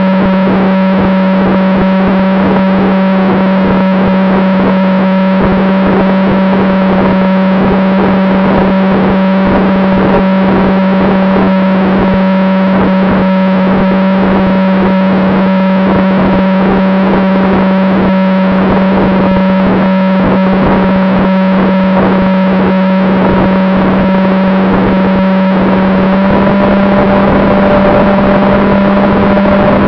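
Steady, loud buzzing whine of an FPV model plane's electric motor and propeller, picked up on board with a hiss of airflow. The pitch and loudness step up slightly near the end as the throttle is opened.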